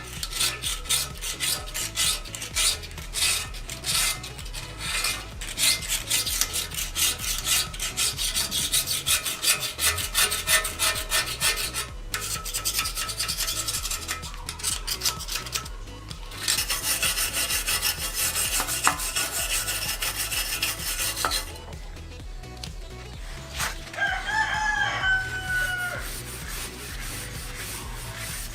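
Rapid, repeated hand scraping on a steel motorcycle frame as old paint is stripped off, with stretches of fast strokes and a steadier stretch near the middle. A rooster crows once near the end.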